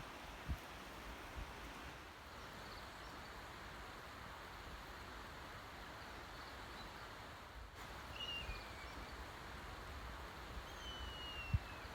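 Steady outdoor background hiss with a wild bird calling faintly: a short falling whistle about two-thirds of the way through, then a longer, slowly falling whistle near the end. A soft low thump or two near the end.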